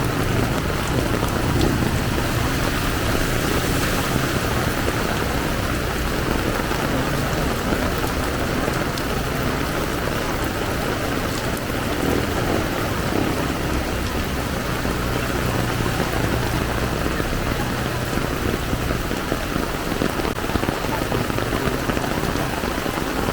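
Heavy tropical downpour, a steady dense hiss of rain pouring onto the street. A low engine hum from passing traffic comes and goes underneath.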